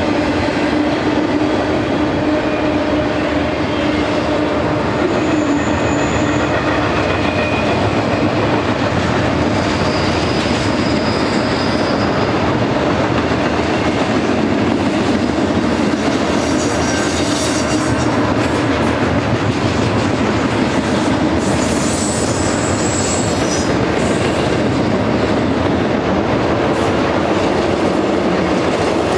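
Double-stack container train's cars rolling past steadily: the rumble and clatter of steel wheels on rail, with brief high-pitched wheel squeals coming and going several times.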